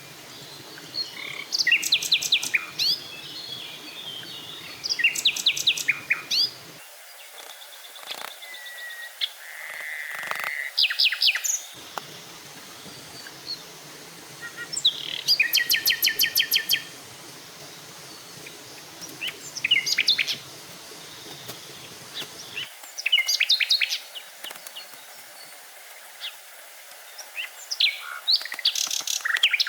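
Forest birds singing: short phrases of rapid, evenly repeated high notes, one every few seconds, over a faint steady background hiss.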